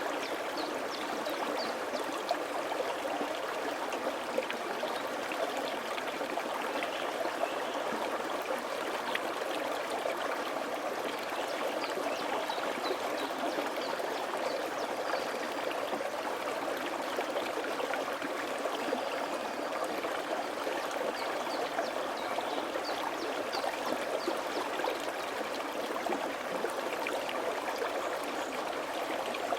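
Mountain valley stream flowing: a steady, even rush and babble of water.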